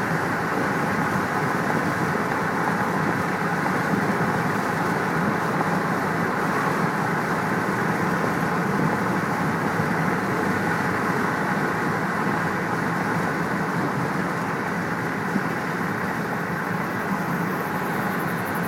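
Steady road-traffic noise, an even rushing hum with no distinct cracks or claps of thunder.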